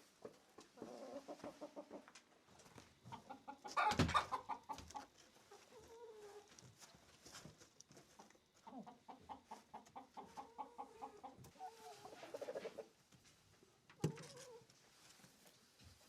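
Hens clucking in a coop in runs of quick, repeated clucks, with a louder burst of calls about 4 seconds in and another short loud squawk near the end.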